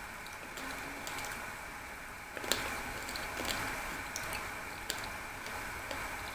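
Eating sounds: quiet chewing with scattered small mouth clicks over a steady hiss, with a sharper click about two and a half seconds in.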